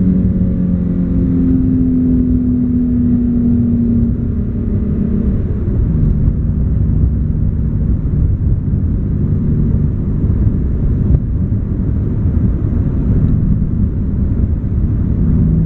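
Infiniti G37 sedan's 3.7-litre V6 through Berk high-flow cats and a Topspeed Y-back exhaust, heard inside the cabin with the windows up: a steady exhaust drone under road rumble. The engine note drops about five or six seconds in and holds lower.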